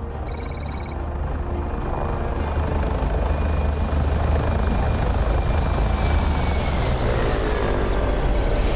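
Helicopter flying past: a deep rotor rumble grows louder over the first few seconds, and a high turbine whine drops in pitch about seven seconds in as it goes by.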